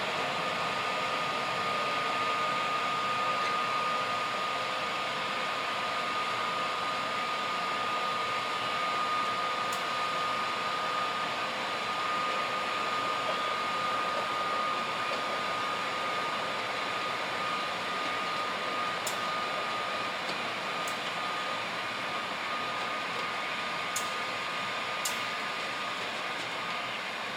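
A train rolling past on the rails: a steady rushing noise with a thin, high, steady wheel squeal that fades out about twenty seconds in, and a few sharp clicks in the second half.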